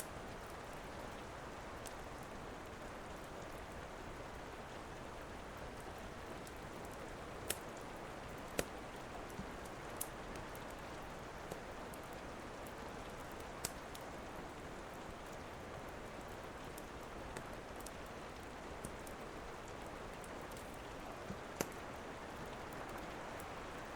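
Steady rain hiss with a wood fire crackling over it: scattered sharp pops every second to few seconds.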